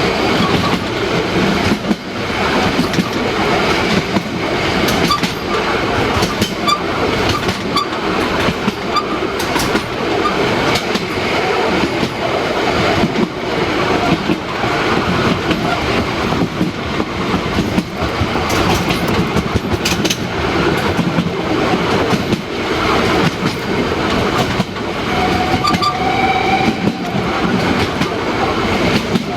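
Narrow-gauge steam train running, a steady loud rumble with the clickety-clack of wheels over the rail joints. A brief high tone sounds about 26 seconds in.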